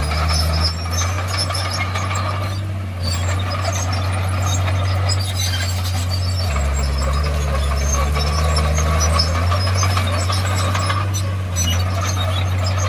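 Komatsu D51PX bulldozer's diesel engine running steadily, its note shifting about halfway through, with metallic clinks and squeaks from the steel tracks.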